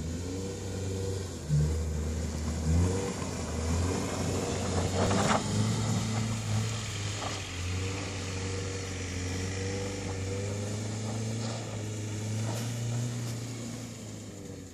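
BMW car engine revving up and down over and over as the car slides and spins its wheels on snow.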